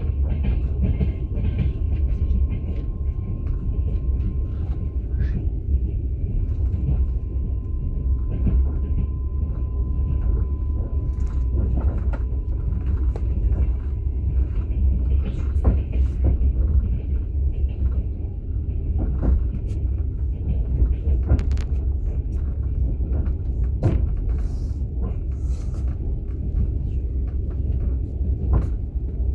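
Steady low rumble of a moving passenger train heard from inside an open-plan sleeper carriage, with scattered knocks and rattles from the wheels and car body.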